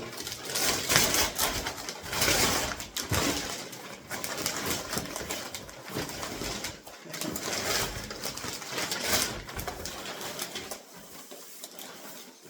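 Gift packaging rustling and crinkling as a present is unwrapped by hand, in irregular crackly handfuls with louder swells, quieter near the end.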